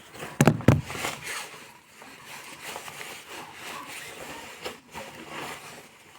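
Two sharp knocks about half a second in, followed by continuous crackly rustling and scraping with an occasional click.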